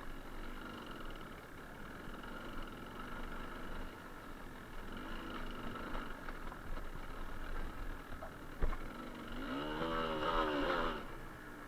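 Suzuki TS125R two-stroke single-cylinder engine running under way, with a sharp knock about eight and a half seconds in. Near the end the engine revs up briefly, rising in pitch, then drops away suddenly.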